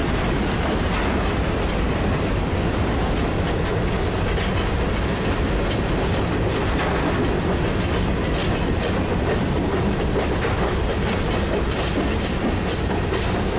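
Freight train of covered hopper cars rolling past: a steady rumble of steel wheels on rail with clickety-clack from the trucks over the rail joints, and a few short high squeaks.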